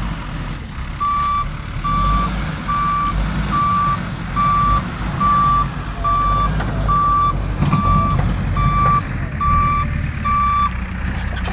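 Reversing alarm of a JCB backhoe loader beeping evenly, twelve single-tone beeps at a little more than one a second, over the machine's diesel engine running. The beeps start about a second in and stop shortly before the end.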